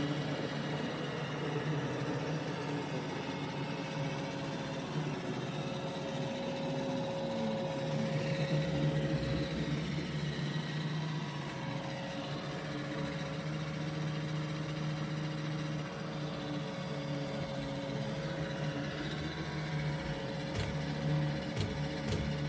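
iRobot Roomba Combo i5 robot vacuum running, a steady motor and brush hum with a few sharp clicks near the end.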